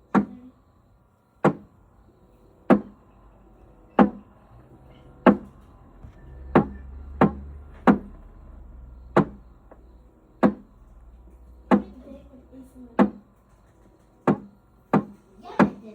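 Refrigerator ice maker knocking sharply about every second and a quarter, with a low hum rising in the middle. This is the abnormal noise of an ice maker that is not making any ice.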